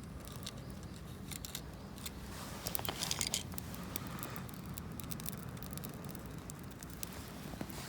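Gear being handled and fastened by hand: light rustling and scattered small clicks, with a busier cluster about three seconds in.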